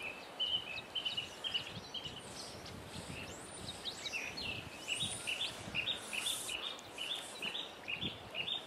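Small birds singing: runs of short, quickly repeated chirps, with a few quick whistled notes about halfway through and a longer run in the second half, over a steady background hiss.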